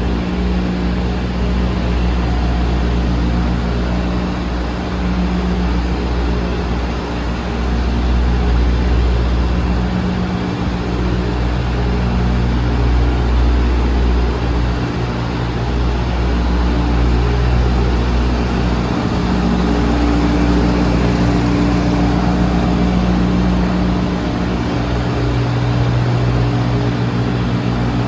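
Diesel engine idling steadily, with a low, even running note that shifts slightly now and then.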